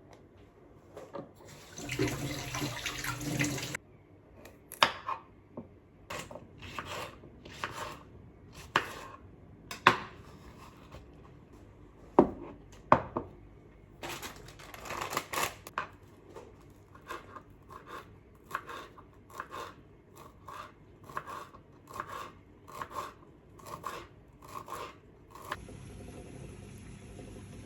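Kitchen work: water runs briefly at the start, then a string of short knocks and scrapes that settles into an even rhythm of about two a second. Near the end a steady hiss with a thin high whine begins.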